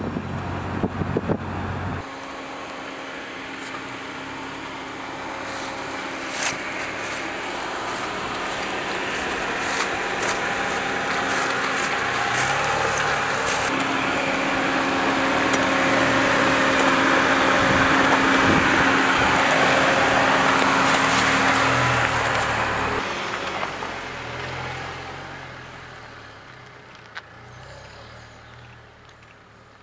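Dacia Duster 4x4 on an off-road drive: engine and tyre noise build steadily, with scattered crackles, to a peak, then drop away near the end.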